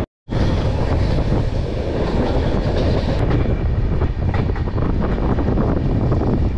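Passenger train running along the track: a steady rumble and hiss with many rapid, irregular clicks of the wheels over the rails.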